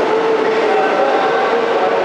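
Steady train noise in an underground station, even in level throughout, with a few faint tones shifting slightly in pitch.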